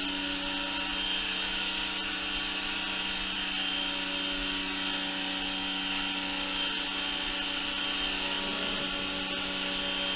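Giraffe Tools 1800 W electric pressure washer running steadily under load, its motor and pump humming under the hiss of the high-pressure water jet on the floor.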